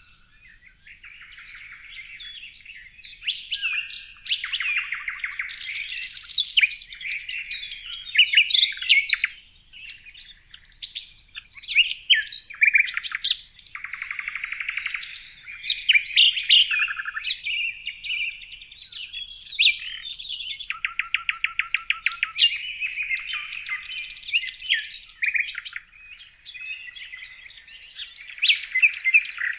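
Songbirds singing, a busy, continuous mix of chirps, whistled phrases and fast trills of repeated notes.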